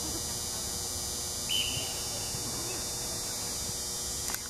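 Steady open-air background hiss of a football match with faint distant voices, broken about a second and a half in by one short, high, flat whistle blast, most likely from the referee's whistle.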